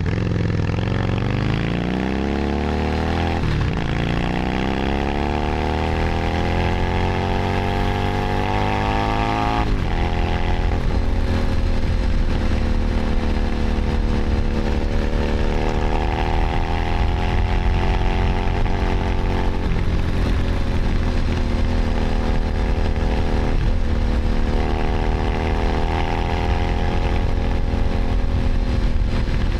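Keeway SCR 250V V-twin motorcycle engine and exhaust under way. It pulls up through the revs twice, with a drop in pitch at each gear change about three and a half and ten seconds in, then cruises at fairly steady revs with small throttle changes.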